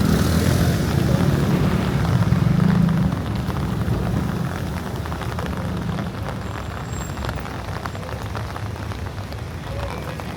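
Heavy rain falling on a street, a steady hiss. A vehicle's low engine rumble is loud for the first three seconds, then fades away by about six seconds.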